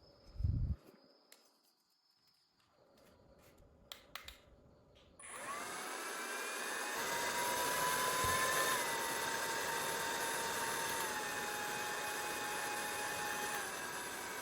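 A portable USB mini fan handled with a thump and a few clicks, then switched on about five seconds in: it spins up to a steady whir of rushing air with a motor whine that drops in pitch a few times in small steps.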